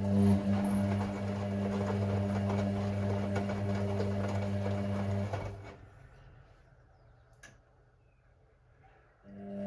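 Hoover Six Sportswear 1300 washing machine tumbling its load: the drum motor hums steadily for about six seconds with the load turning, then stops. A quiet pause follows, broken by a single click, and the motor starts again near the end, in the stop-start tumbling of the wash phase.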